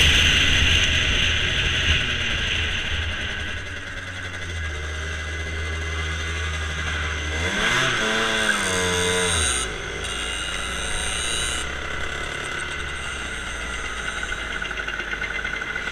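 Road traffic and a running motorcycle engine as heard from the bike, a steady hum with road and wind noise. A short wavering pitched sound comes about eight seconds in.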